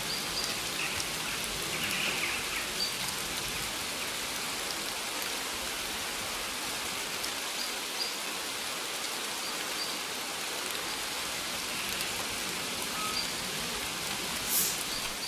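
Steady rain falling on maize leaves: an even hiss of dense patter with scattered single drop ticks, and one brief louder swish near the end.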